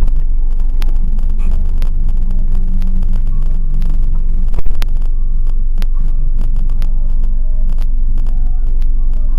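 Car engine idling, heard from inside the cabin as a steady low rumble and hum, with frequent small clicks and a short thump about halfway through.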